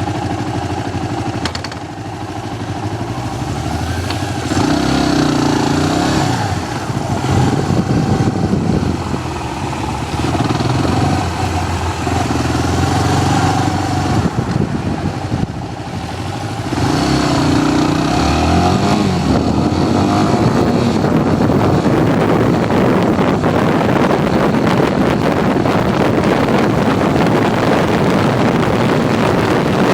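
Motorcycle engine accelerating, its pitch climbing and dropping back twice as it shifts up through the gears. From about two-thirds of the way in it settles into a steady cruise, with rushing wind on the microphone.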